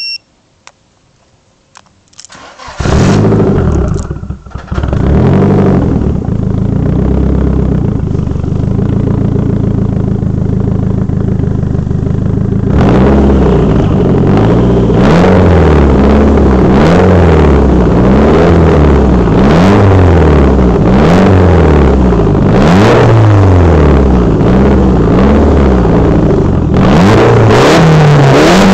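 Nissan S13's turbocharged SR20DET four-cylinder starts from a remote starter: a short electronic chirp, a few clicks, then the engine cranks and catches about three seconds in, dips briefly and settles into a steady idle. From about thirteen seconds in it is revved again and again, the pitch rising and falling roughly every second and a half.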